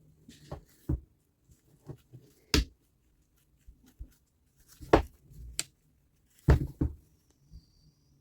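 Irregular clicks and knocks of tools and saw parts being handled on a workbench, the loudest about two and a half, five and six and a half seconds in.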